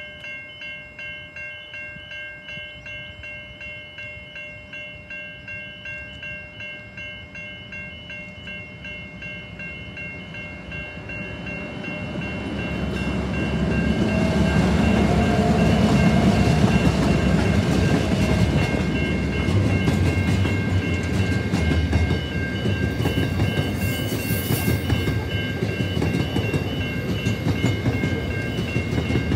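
Level crossing bells ringing in even pulses while a CBH Group grain train approaches. The train grows louder from about 11 seconds in and is loudest as its diesel locomotives pass the crossing around 14 to 18 seconds. After that the grain hopper wagons keep rolling over the crossing, rumbling and clicking over the rail joints, with the bells still ringing.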